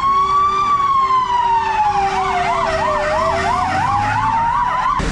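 Emergency vehicle sirens. One runs a slow wail that rises, falls and rises again. From about two seconds in, a second siren warbles quickly over it. Both cut off suddenly near the end.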